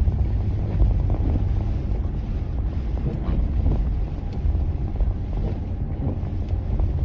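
Plow truck driving, a steady low rumble of engine and road noise.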